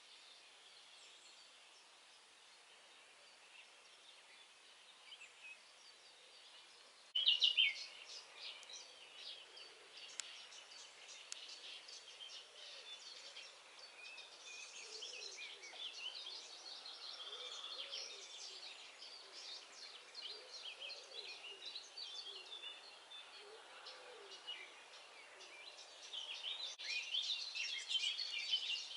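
Dawn chorus of many songbirds singing at once, a dense mix of high trills and twittering chirps. It turns suddenly louder and busier about seven seconds in, and swells again near the end.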